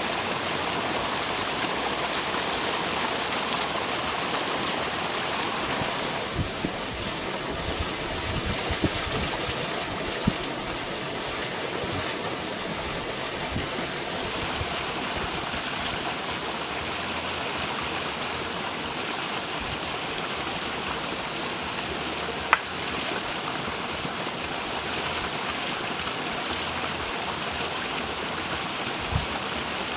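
A stream running: a steady rush of flowing water, with a few short knocks now and then.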